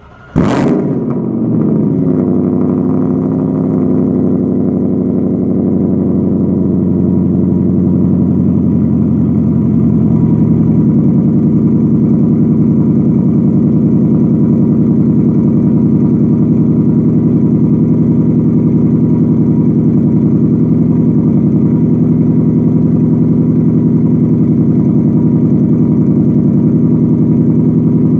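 A car engine with a 2.5-inch exhaust, X-pipe, Borla ATAK mufflers and 12-inch resonators on the tips, cold-starting: it fires with a sudden loud flare about half a second in, then settles into a steady idle through the exhaust. The idle grows a little louder about ten seconds in.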